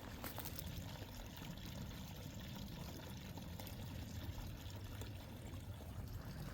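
Steady trickle of running water, even and unbroken, with no footsteps.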